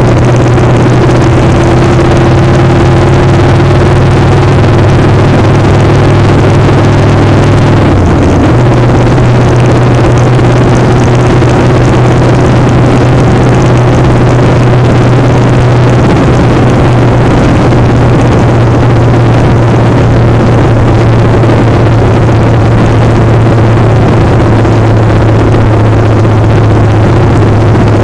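Motorcycle engine running at a steady speed under heavy wind noise on the microphone, its note shifting briefly about eight seconds in.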